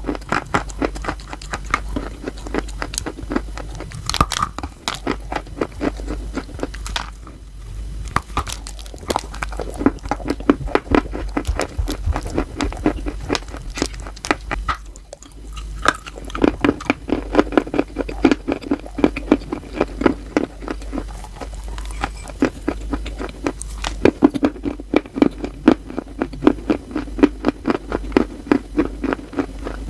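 Chalk being bitten and chewed close to the microphone: a dense run of crisp crunches, easing off briefly about seven and fifteen seconds in.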